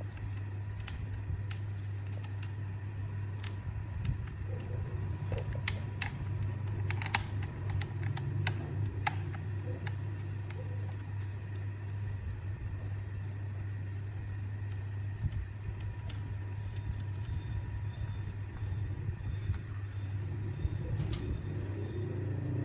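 A steady low hum with light clicks and taps scattered over it, thickest in the first half.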